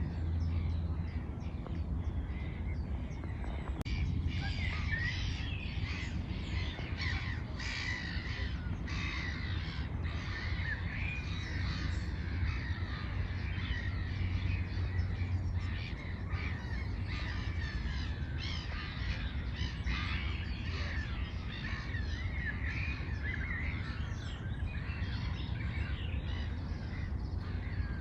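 Many birds calling and chirping at once, a busy continuous chorus, over a steady low rumble.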